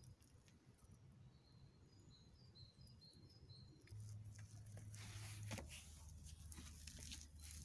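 Near silence with faint bird chirping, a string of short high notes about two seconds in, and light scrapes of crumbling forge clay under a hand. A faint low hum sets in about halfway through.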